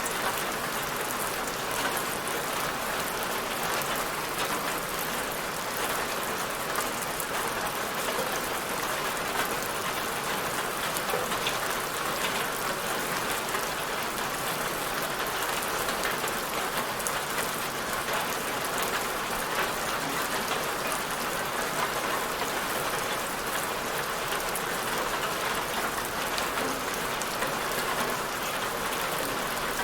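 Steady rain falling on a surface, an even hiss with many fine drop patters and no change in intensity.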